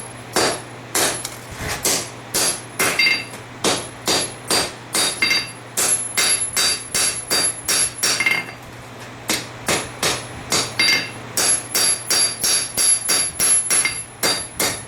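Hand hammer striking hot steel on an anvil, about two to three ringing blows a second in runs with short pauses. The blows are stepping down a farrier-rasp blade to define the shoulder where the tang begins.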